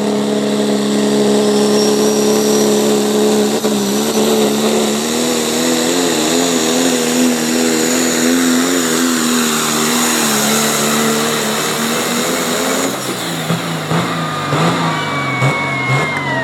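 A pulling truck or tractor's engine held at full throttle under load, its pitch wavering from about four seconds in. Near the end the throttle cuts off suddenly, the engine drops to a lower, uneven note, and a high whistle falls in pitch as it winds down.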